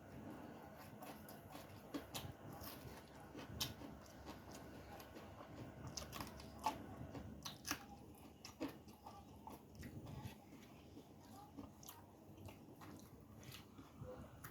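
A person chewing a home-style rice meal with crunchy sides, with irregular crisp crunches and sharp clicks.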